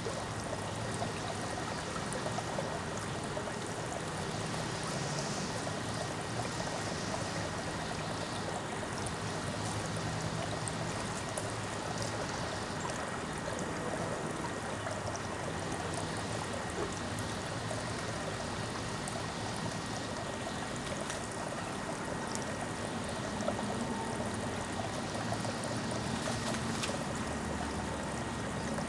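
Steady sound of running water, trickling without a break.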